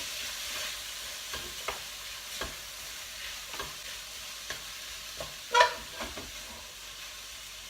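Utensil stirring chopped tomato into onions and spices sizzling in a pan with a little water, with light scrapes and taps against the pan and one louder ringing clink about five and a half seconds in.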